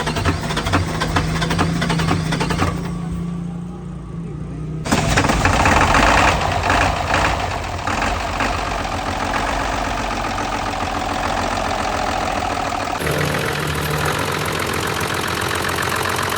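Heavy truck diesel engine running with a rhythmic low beat. The sound changes abruptly a few times: it turns muffled about three seconds in, comes back louder about five seconds in, and shifts again near the end.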